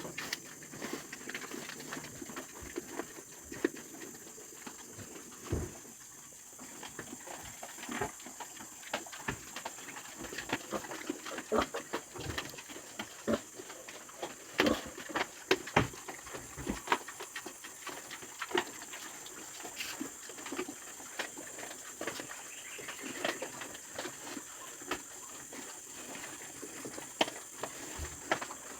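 Pigs in a pen making irregular knocks, clatter and short snuffling sounds as they move about, over a steady high-pitched hiss.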